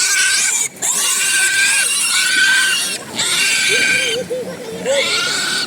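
Pigs squealing: loud, shrill, drawn-out squeals one after another with brief breaks between them.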